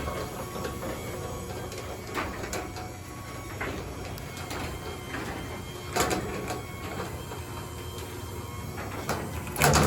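Genie 1028 belt-drive garage door opener running, raising the door with a steady motor hum and rattle of the door travelling. A louder clunk comes about six seconds in and another near the end.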